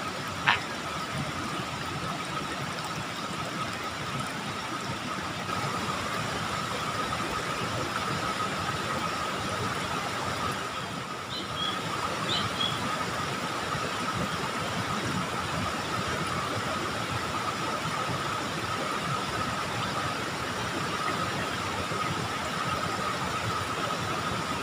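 Steady rushing of water flowing in a small ditch, with a steady high-pitched tone running over it. There is a short click about half a second in and two brief high chirps near the middle.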